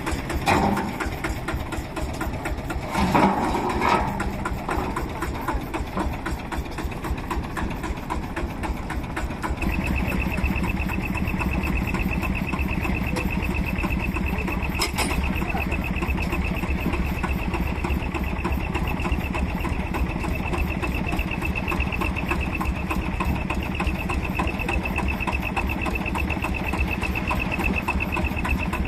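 Vintage stationary engines running with a fast, even mechanical clatter. About ten seconds in, a steady high whine and a heavier low rumble join it.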